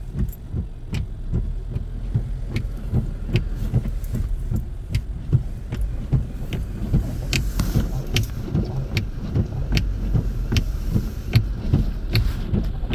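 Car running on a snowy road, heard from inside the cabin: a steady low engine and road rumble, with sharp clicks at an even pace of a little more than one a second.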